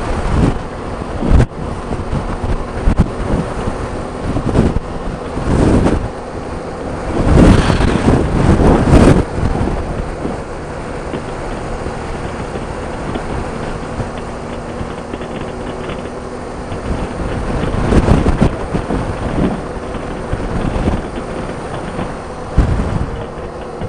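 Motorcycle running at steady road speed, its engine a steady hum under wind noise, with gusts of wind buffeting the microphone about seven to nine seconds in and again around eighteen seconds.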